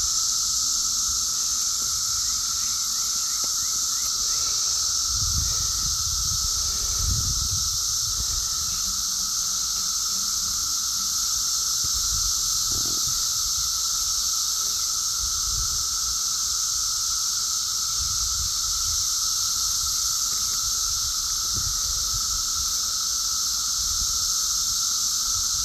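Dense chorus of periodical seventeen-year cicadas: a loud, steady high-pitched drone with a second steady, lower tone beneath it, unbroken throughout. A few low bumps come and go underneath.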